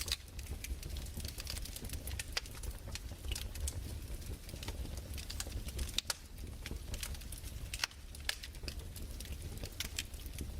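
Fireplace crackling: irregular sharp pops and snaps over a low steady rumble.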